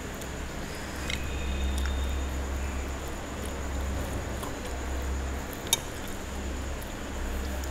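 A person biting into and chewing a piece of puri soaked in mutton curry, with soft, wet mouth sounds over a steady low hum. One sharp click comes a little over halfway through.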